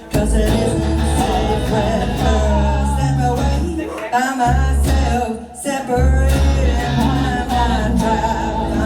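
Live band playing a song: sustained bass notes under a wavering melodic line from voice or lead instrument, with guitar and a few drum hits.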